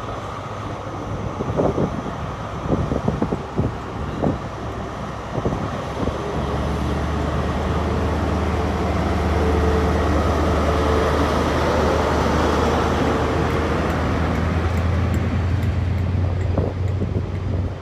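Diesel engine of a CrossCountry HST's Class 43 power car, an MTU V16, throttling up as the train starts to depart. It makes a steady low drone that swells about six seconds in and holds. A few sharp knocks come in the first seconds.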